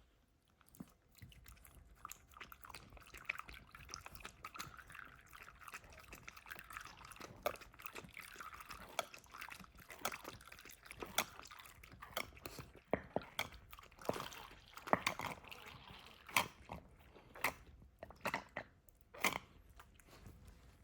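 A dog chewing and crunching food: irregular sharp crunches and clicks that come thicker and louder in the second half.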